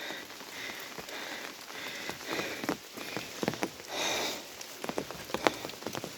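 Rain falling, with sharp individual drops tapping close by, more of them in the second half.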